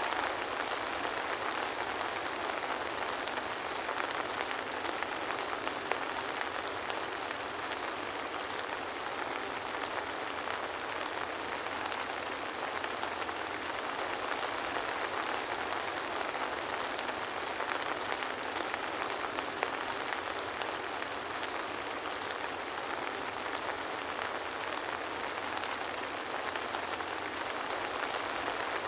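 Steady soft rain falling, an even hiss of many small drops with fine scattered ticks of individual drops, without thunder.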